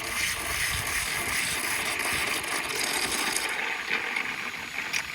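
Garden hose spray nozzle running water into a pet's water bowl, a steady hiss of spraying and splashing water.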